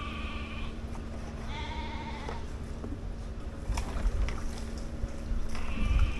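An animal bleating three times, each call about a second long and wavering, over wind rumbling on the microphone, with a few sharp knocks midway.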